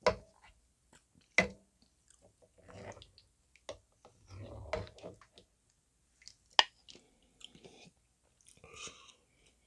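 Close-miked chewing of dumpling soup, with wet mouth sounds and about four sharp utensil clicks spread through.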